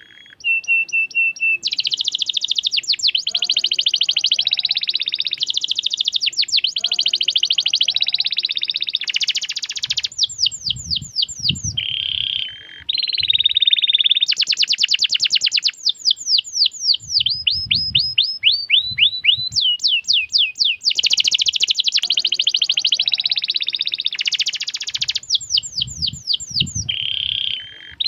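Domestic canary singing a long, continuous song of fast trills and rolls, with rapid repeated chirps and series of sweeping whistled notes, switching phrases every second or two.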